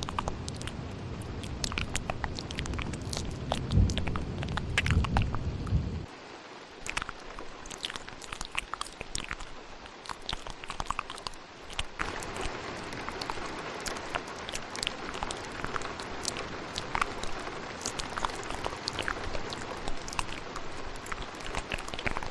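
Layered ASMR mouth sounds, a steady stream of small wet clicks and smacks, over a recording of rain. For the first six seconds a low thunder rumble runs under it and then cuts off suddenly.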